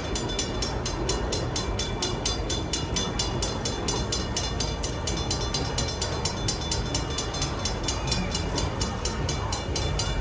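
Safetran mechanical railroad crossing bells ringing rapidly and steadily, about five strikes a second, over a constant low rumble.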